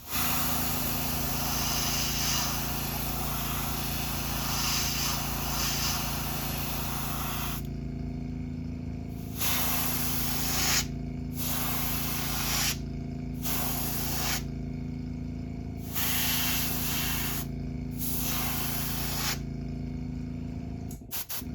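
Airbrush spraying paint onto a crankbait: a continuous hiss for the first several seconds, then about five short bursts of spray of one to two seconds each as the trigger is pressed and released. A steady low hum runs underneath.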